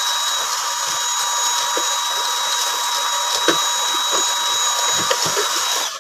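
Dyson cordless handheld vacuum cleaner running steadily with a high motor whine, drawing thick dust off a bathroom exhaust fan. A few light knocks sound over it, the clearest about three and a half seconds in.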